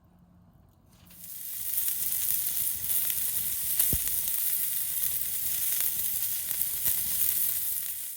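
Food sizzling loudly in a hot pan over a campfire, the sizzle swelling in about a second in as the food hits the pan, with scattered crackles and one sharp pop about four seconds in; it cuts off suddenly at the end.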